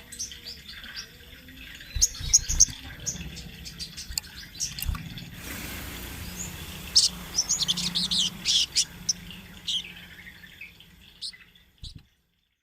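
Sogon trotol (sogok ontong) songbird singing in rapid runs of short, high chirps, busiest in the second half, with a few low thumps in the first half. The audio cuts off just before the end.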